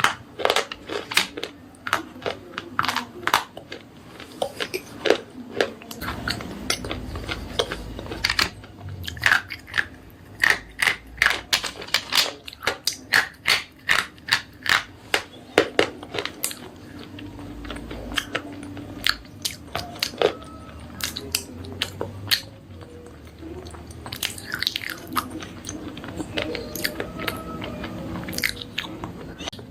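Slate pencils being bitten and chewed close to the microphone: a dense run of sharp, dry crunches, several a second.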